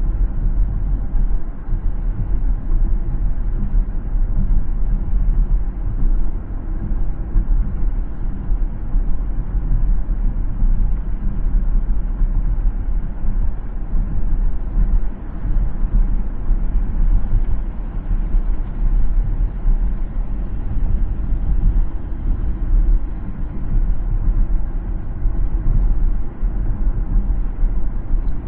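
Steady low rumble of a car driving on the road: tyre and road noise with engine drone, without sharp events.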